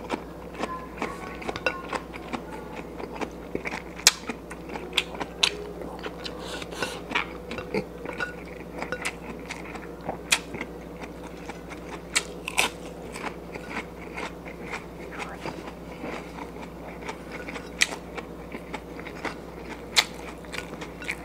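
Close-up chewing with frequent short, sharp mouth clicks and smacks, a person eating rice and fried fish by hand, over a faint steady hum.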